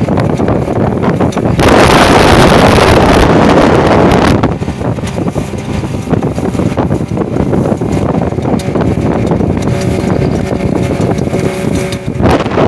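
New boat engine running while under way, with heavy wind buffeting the microphone; the sound swells louder for a couple of seconds about two seconds in.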